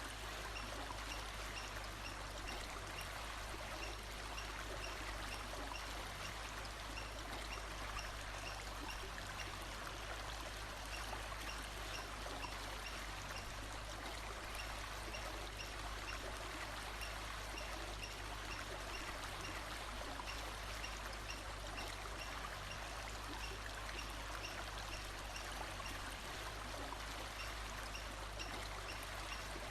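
Steady rushing of a running stream, with a faint high chirp repeating at an even pace above it.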